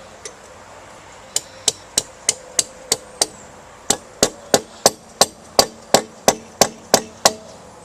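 Hammer blows during removal of an old garden hose spigot, about three a second: a first run of about seven strikes, a short pause, then a louder run of about a dozen.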